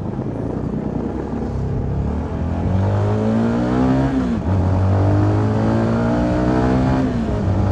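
CFMoto 300NK's single-cylinder engine pulling away through the gears: the revs climb, drop sharply at an upshift about four and a half seconds in, climb again and drop at a second upshift near the end. Wind noise on the microphone runs underneath.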